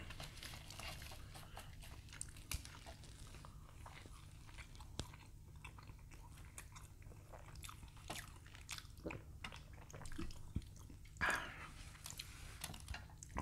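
Faint, close-miked chewing and small wet mouth clicks of people eating, with scattered light clicks and taps throughout and a brief louder mouth sound about 11 seconds in.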